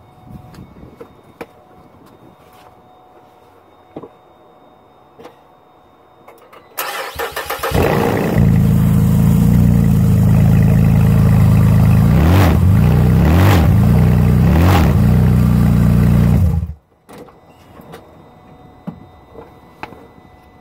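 Pontiac G8 engine cranked and started, then idling with three quick revs that rise and fall, and switched off abruptly. The revs are the test for a bad motor mount.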